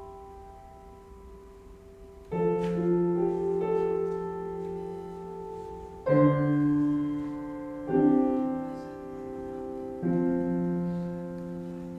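Solo piano playing slow chords: four chords struck a few seconds apart, each ringing on and fading before the next.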